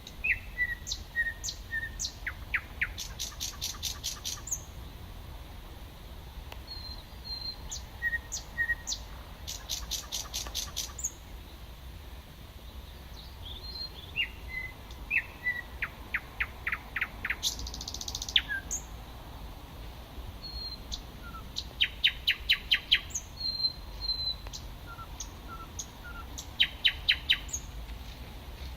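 Thrush nightingale singing: loud phrases of rapid, evenly repeated clicking notes come about every five to six seconds, with short high whistles and chirps between them.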